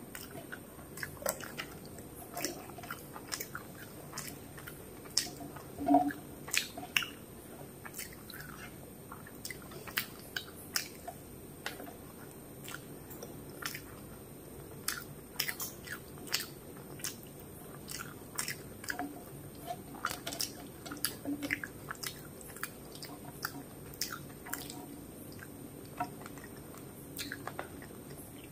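A person chewing a mouthful of rice and fish curry close to the microphone, with many short sharp clicks at irregular intervals. The loudest comes about six seconds in.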